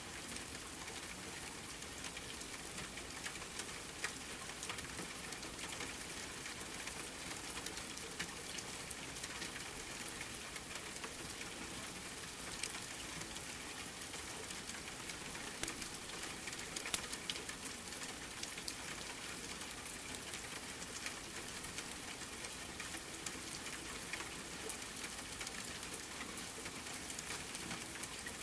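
Steady rain with scattered sharp crackles from a wood fire mixed in.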